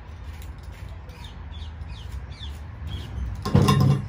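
Small birds calling: a string of short, high, falling chirps, about six in two seconds. Near the end there is a brief louder sound, the loudest thing here.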